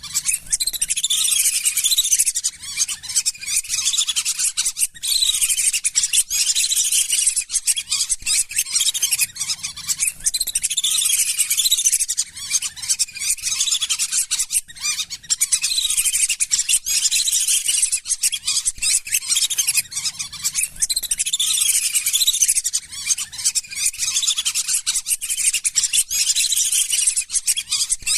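A flock of lesser whistling ducks calling: a dense chorus of thin, high whistles in stretches that recur about every five seconds.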